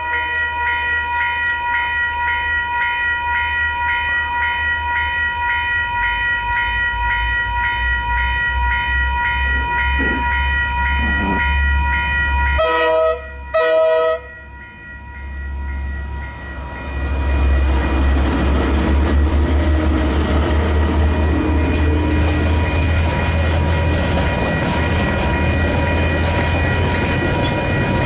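Level crossing alarm ringing with an even pulsing beat, then two short horn blasts from KiwiRail DL-class diesel-electric locomotives about 13 s in. The train then rumbles past loudly with engine drone and wheel noise.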